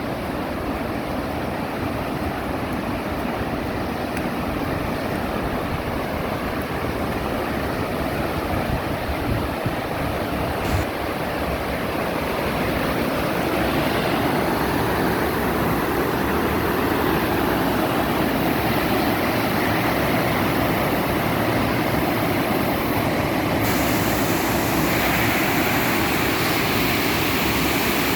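Floodwater rushing out of an overflowing reservoir after heavy rain: a steady rush of water that grows louder about halfway through.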